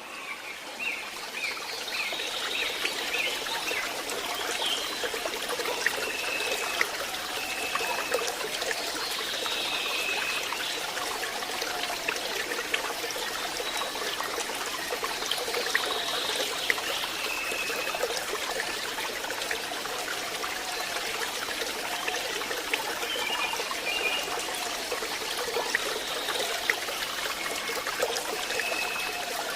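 A stream trickling and splashing steadily over rocks, with short high bird calls repeating every few seconds.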